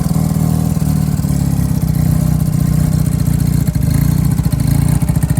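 1978 Honda Hawk's 395 cc parallel-twin engine running steadily, still warming up after a cold start.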